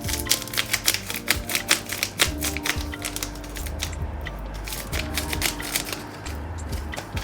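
A quick run of sharp clicks and taps, densest in the first three seconds and sparser after, over soft background music.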